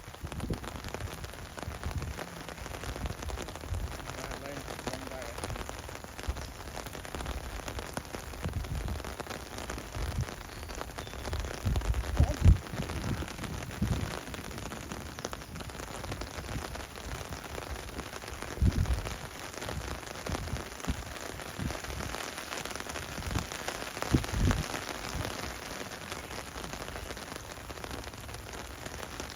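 Steady rain falling, an even hiss. A few dull low thumps come through it, about twelve, nineteen and twenty-four seconds in.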